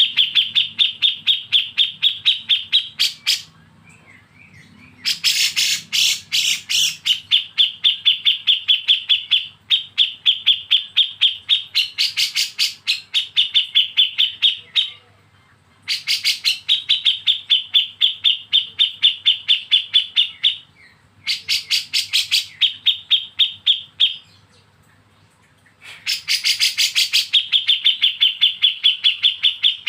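Songbird giving a rapid, chattering 'besetan' song: long runs of quick repeated notes, about five a second, each phrase often opening with a harsher burst before settling into an even high trill, with short pauses between phrases.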